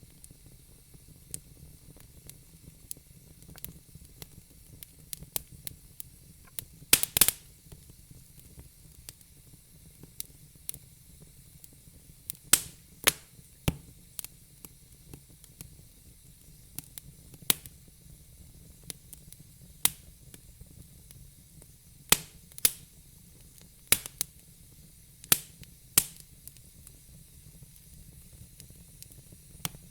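Wood fire in a fire pit crackling: scattered sharp pops and snaps over a faint steady hiss, with a quick run of pops about seven seconds in.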